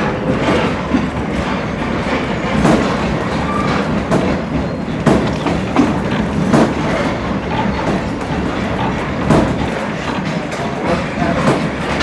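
Heritage passenger coach riding along the rails, a steady rumble with irregular knocks and clicks from the wheels and the rattling car body.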